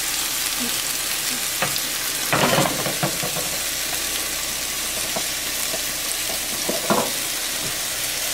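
Thin chicken breast fillets frying in an oiled pan, a steady sizzle, with a few short clicks and knocks from the pan along the way.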